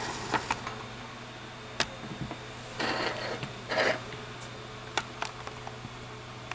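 Small tools being handled on an electronics repair bench: a few sharp clicks and two short bursts of rustling and scraping, over a steady low hum of bench equipment.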